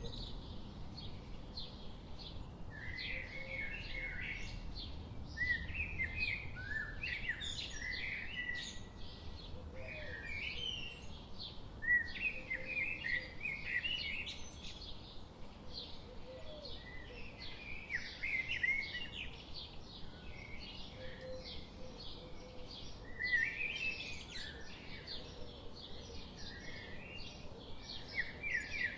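Birds chirping and calling continuously in high, rapid notes, with louder warbling bouts every few seconds.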